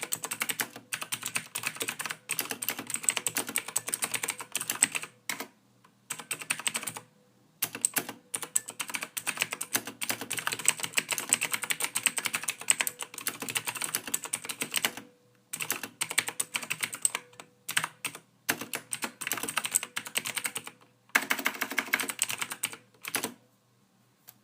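Computer keyboard typing in fast, continuous runs of keystrokes, broken by short pauses every few seconds. The typing stops about a second before the end.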